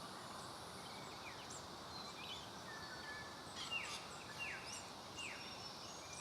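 Small birds calling faintly over a steady outdoor hiss: scattered short high chirps, with a run of quick downward-sliding calls in the second half.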